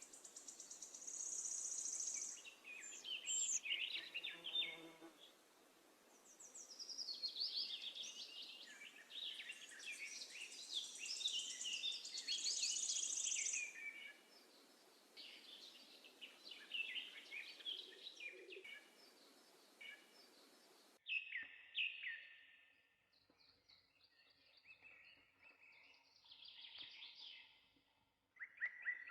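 Sparrows chirping and chattering, dense overlapping calls for about twenty seconds, then a steady background hiss cuts off suddenly and the chirps become sparser.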